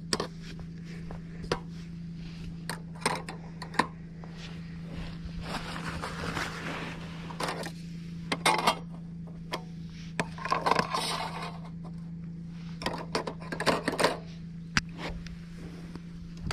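Small objects being handled: scattered light clinks and knocks with short scraping and rustling passages, over a steady low hum.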